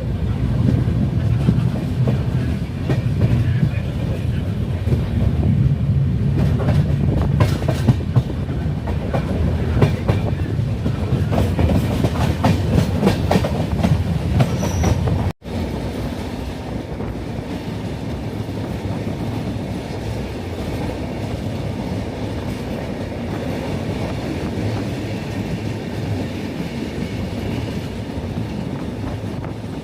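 Vaigai Superfast Express running at speed, its wheels clattering rapidly over the rail joints over a steady low rumble. About halfway through the clatter stops abruptly and a quieter, even running rumble continues.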